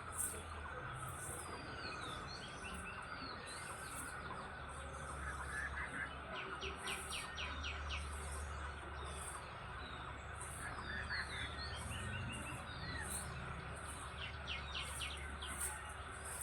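Several birds chirping and singing in a morning chorus, with quick trilled runs of notes and very high chirps repeating about once a second. A steady low rumble lies underneath.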